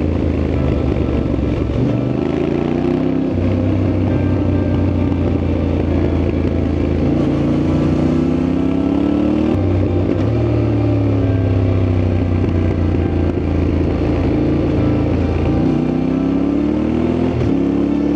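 Yamaha Ténéré 700's parallel-twin engine running on the move, its pitch rising and falling several times with the throttle, with a sharp dip near the end.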